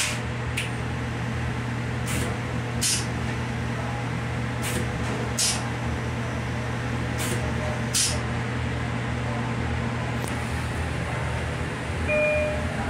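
Steady running drone and low hum inside a moving LIRR C3 bilevel coach's restroom, with scattered sharp clicks and rattles. Near the end there is a short squeak as the toilet seat is handled.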